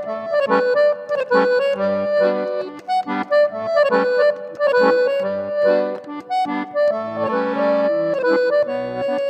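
Instrumental accordion music, a melody over short repeated bass notes, in the forró style.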